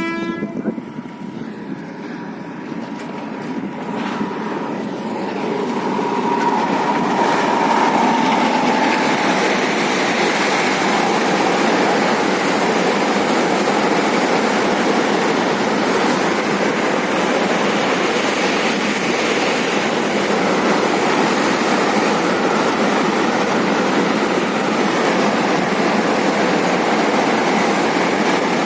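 A train passing close by, its noise building over the first several seconds into a loud, steady rumble and clatter of wagons on the rails.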